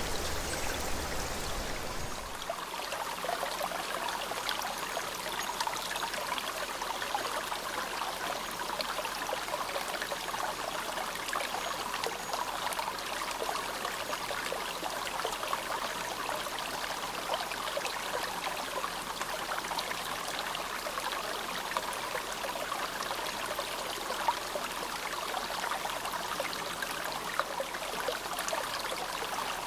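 Clear snowmelt mountain stream of the Azusa River babbling and splashing steadily. A deeper low rumble under it drops away about two seconds in.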